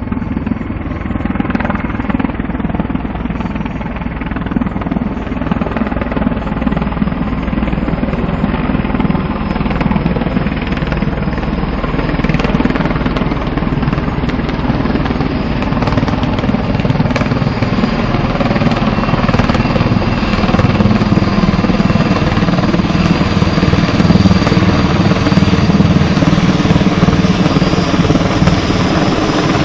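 Firefighting helicopter's rotor chop and engine noise, growing steadily louder.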